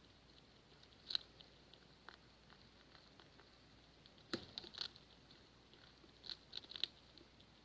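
Pet rats making crackling sounds: scattered sharp clicks, one about a second in, a cluster of several a little past the middle and another near the end, over a faint background hiss.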